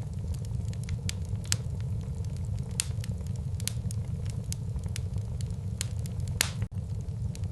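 Wood fire burning in a fireplace: a steady low rumble of the flames with frequent sharp crackles and pops of burning wood, one louder pop about six and a half seconds in.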